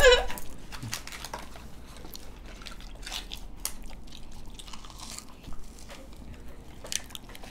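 People chewing and biting chocolate, with soft scattered crunches and small mouth clicks.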